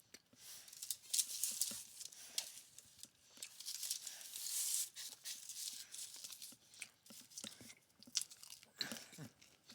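A person chewing and biting into Domino's spinach and feta stuffed cheesy bread close to the microphone, with irregular mouth clicks and smacks.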